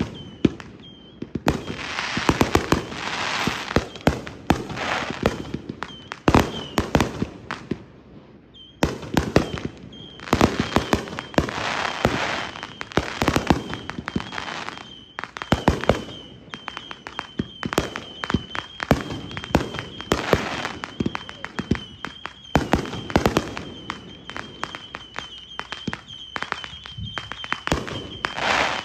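Fireworks going off in quick succession: overlapping bangs, pops and crackle throughout, with a steady high whine running through from about ten seconds in.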